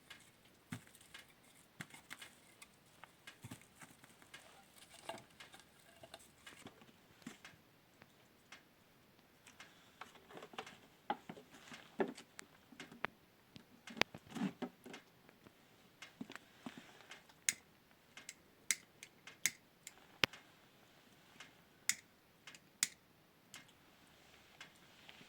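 Irregular light taps and clicks of objects being handled, with a few duller knocks near the middle and sharper clicks in the second half.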